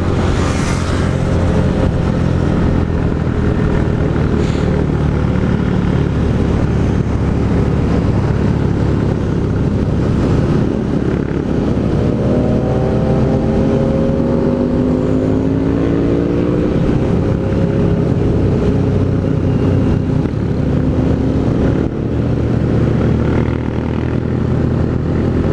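Honda CG Fan 160 single-cylinder engine running loud through an aftermarket Pro Tork GP Competition exhaust while riding. About halfway through, its pitch rises as it accelerates.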